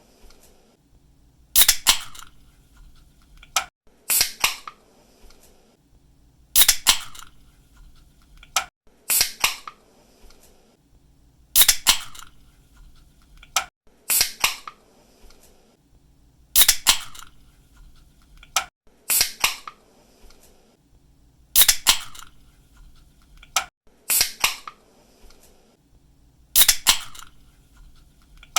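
Aluminium drink can's pull-tab being snapped open again and again: a sharp double crack with a short hiss after it, about every two and a half seconds.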